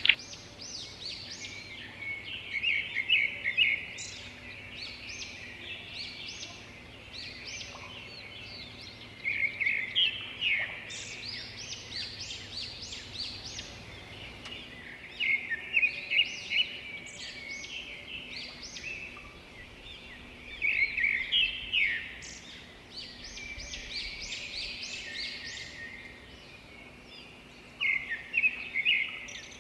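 Songbirds chirping and calling: clusters of quick, high, repeated notes every few seconds over a steady layer of fainter calls.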